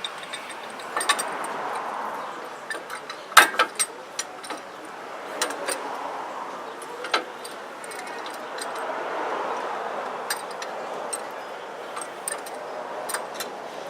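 Scattered metallic clinks and clicks of hand tools and brake parts being handled, with a louder clank and a quick run of clicks about three and a half seconds in, over a steady background hum.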